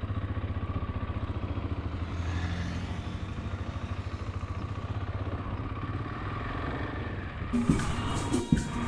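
Motorcycle engine running with an even, pulsing beat, swelling briefly about two seconds in as it revs. Music cuts in near the end.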